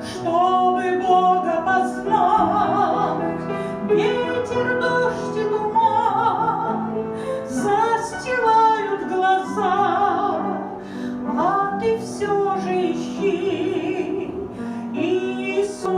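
A Christian song: a singer holds phrases with vibrato over instrumental accompaniment.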